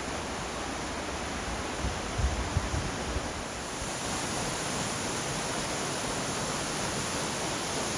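Steady rushing of a waterfall, Ponytail Falls, with a few low bumps about two seconds in.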